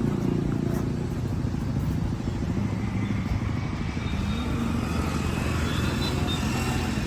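Motorcycle engine running steadily with a low, even engine note.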